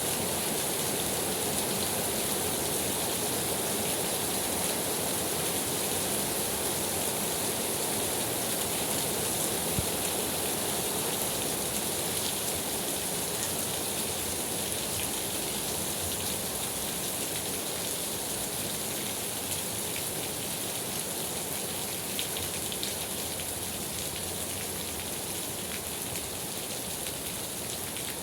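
Steady rainfall with scattered drop taps, easing slightly toward the end, and one louder tap about ten seconds in.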